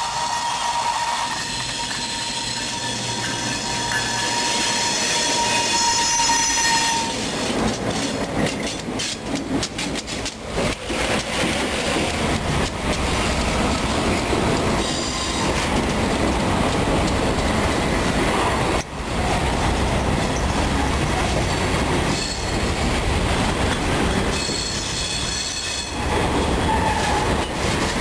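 Freight train of grain cars rolling past, the wheels squealing in a steady high tone for the first several seconds, then the cars rumbling and clicking over rail joints.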